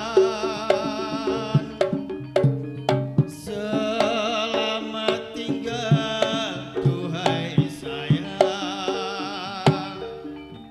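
Javanese folk dance music: a reedy slompret shawm plays a wavering melody in phrases, breaking off around two and six seconds in. It plays over hand-drum strokes and the steady ringing of gamelan-type metallophones.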